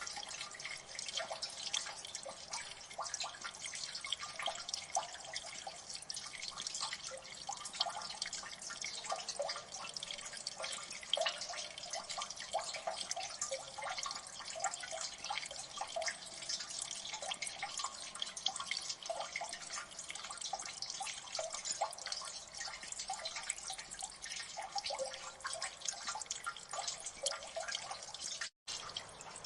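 Water dripping in a gully: many drops falling at once as a dense, continuous run of small splashes and clicks. It cuts out for a split second near the end.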